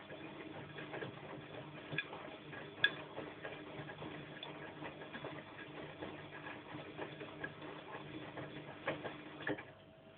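Bosch washing machine drum turning in its wash cycle: a steady motor hum with irregular clicks and knocks from the tumbling load. The drum stops near the end, the pause in the wash rhythm, leaving a quieter hum.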